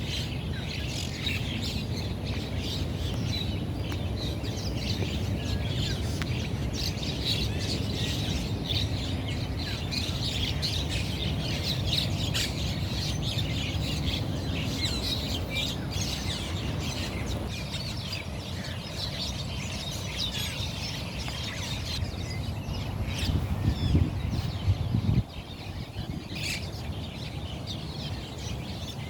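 Monk parakeets chattering: a rapid, continuous stream of short, harsh calls, over a steady low rumble that swells near the end and then drops off suddenly.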